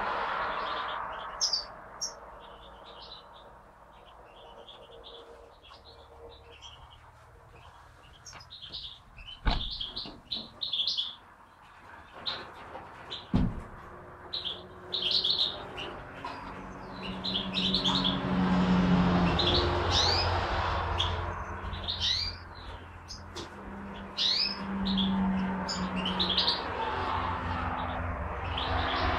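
Small caged birds chirping, with many short, high calls throughout. Two sharp knocks come about a third of the way in and again about halfway through.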